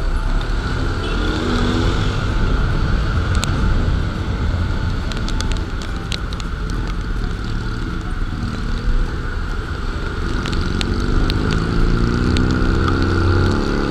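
Honda PCX scooter engine running under way, its freshly replaced drive belt and transmission pulling smoothly, over a steady low rumble. In the last few seconds the engine note rises as it accelerates.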